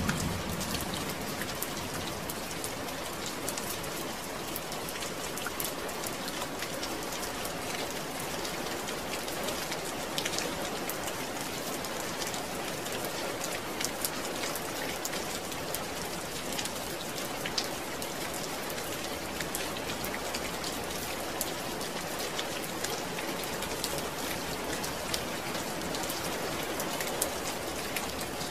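Steady rainfall, a dense even patter of drops hitting a surface, with scattered sharper individual drop hits.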